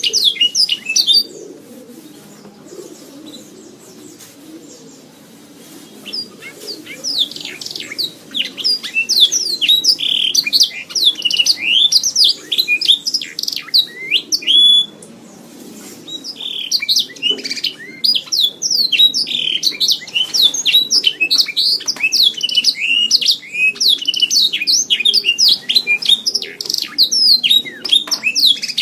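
Domestic canary singing long, rapid phrases of quick chirps, trills and sweeping whistles. The song breaks off for several seconds soon after the start and again briefly about halfway, then runs on without a break.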